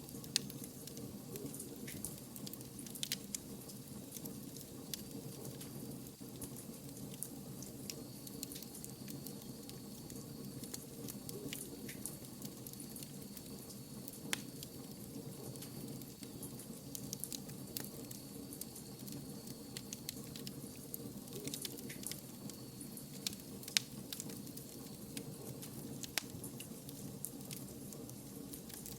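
Wood fire burning, with a steady low rush and frequent sharp, irregular crackles and pops. A faint, thin high whistle comes and goes through the middle.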